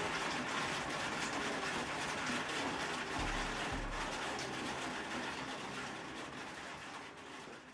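Steady rushing noise of heavy rain on a flooded street, with a couple of low thumps about three seconds in, fading out near the end.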